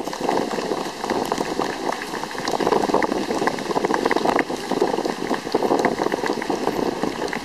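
Strong wind buffeting the microphone: a steady, loud crackling rumble with many small pops.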